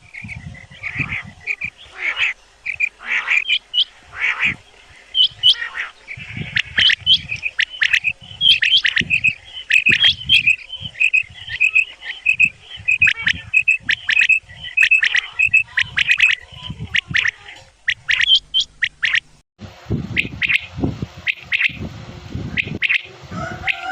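Game birds calling in dense runs of short, repeated high notes, with low thumps underneath. The sound breaks off briefly near the last few seconds, then resumes.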